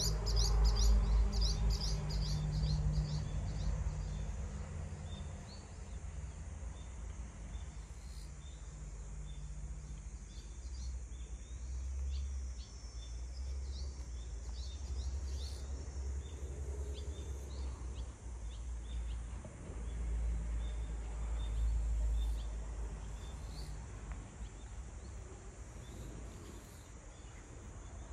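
Outdoor ambience of small birds chirping: a quick run of high chirps in the first few seconds, then scattered short calls, over a low steady rumble.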